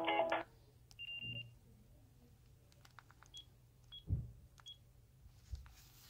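Sagem myC-2 clamshell phone: a polyphonic ringtone melody from its speaker cuts off about half a second in. Then come a half-second key beep and three short high key beeps with faint button clicks as the menu keys are pressed, and a dull thump of handling about four seconds in.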